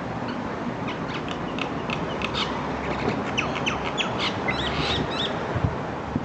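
Birds calling: many short, high chirps and squawks in quick succession over a steady background hiss, busiest in the second half.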